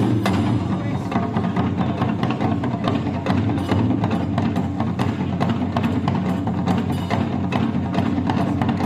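Japanese traditional music with drums and other percussion playing over sustained low tones.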